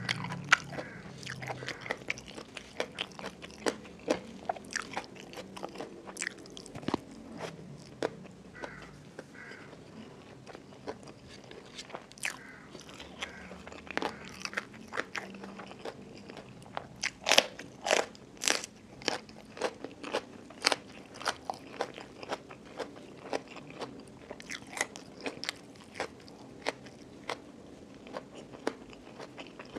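Close-miked chewing of crunchy food, with sharp crunches coming steadily and a loud, dense run of crunches a little past halfway.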